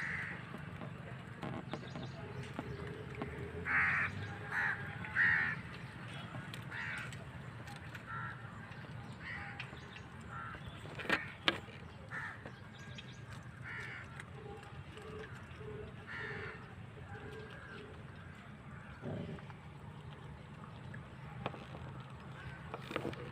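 Crows cawing again and again, with three loud caws about four to five seconds in, over a steady low background hum.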